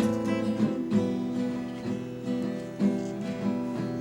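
Acoustic guitar strumming chords, with a new strum about once a second.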